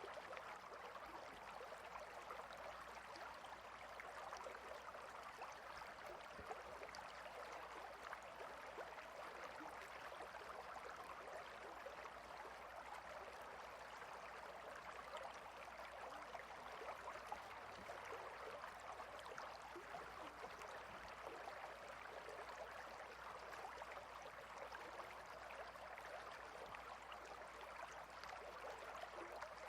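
Clear river running over and between rocks: a steady, quiet babble of flowing water.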